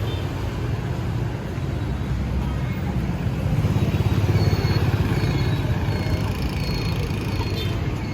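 Busy city-street traffic with motorbike engines running past. The rumble swells louder about four seconds in as one passes close, then eases back.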